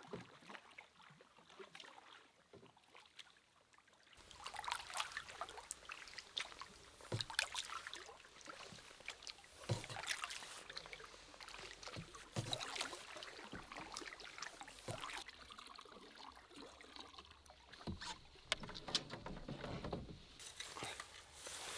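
Canoe paddle strokes dipping and pulling through calm water, with splashes and drips, one stroke every two to three seconds, starting about four seconds in.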